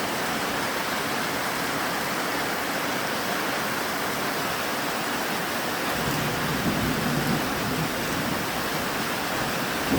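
Steady heavy rain falling, with a low rumble of thunder about six seconds in that lasts around two seconds.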